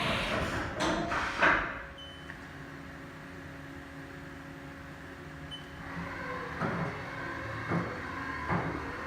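Haas VF-5/40XT CNC vertical mill in operation. A couple of seconds of clattering, then a steady hum with a faint steady tone, then a series of knocks in the last few seconds.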